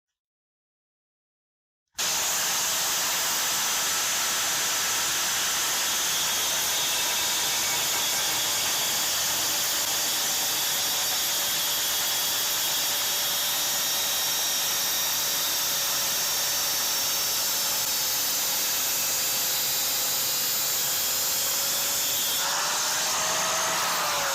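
A steady hiss that starts suddenly about two seconds in and holds an even level, with a faint wavering tone beneath it.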